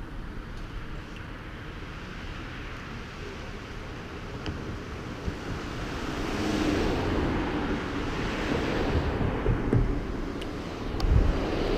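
Wind rushing and buffeting over the microphone of a rider on a moving bicycle, growing louder and gustier from about halfway through.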